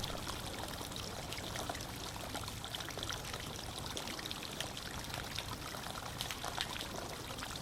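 Water running steadily, like a small stream or trickle, with many small droplet-like splashes.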